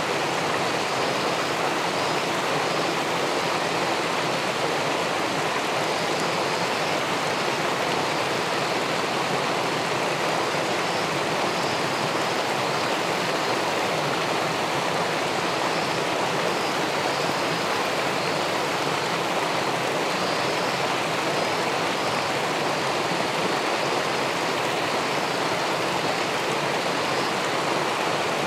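Steady, unbroken rushing of river water pouring through a small weir into the pool below.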